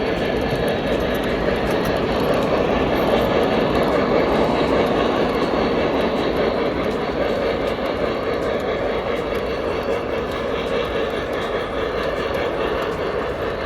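Steady rumble of a train running on track.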